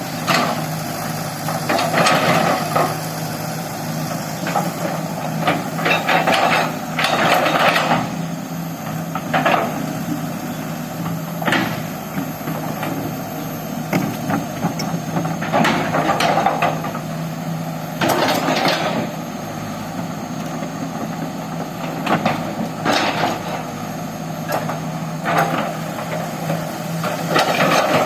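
Excavator engine running steadily, with short bursts of knocking and clatter every second or two from the machine at work.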